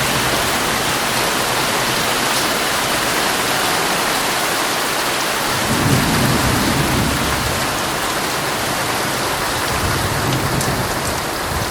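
Heavy rain falling steadily on a tent, with a low roll of thunder rumbling up about six seconds in and fading over a second or two.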